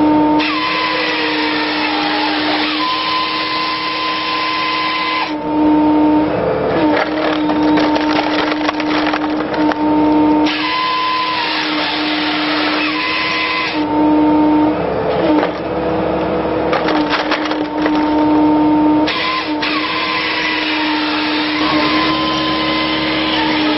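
Excavator-mounted hydraulic firewood processor head working logs: a steady hydraulic whine that dips and slides in pitch as it takes load, with bursts of wood cracking and splintering about every five seconds.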